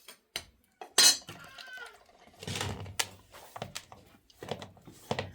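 Metal dishes, pots and utensils clattering and clinking as they are handled, with a sharp clink about a second in and scraping between the knocks.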